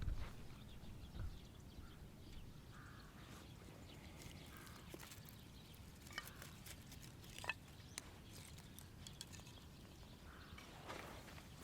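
Quiet outdoor ambience: a faint low rumble with scattered small clicks and a few short, faint bird calls.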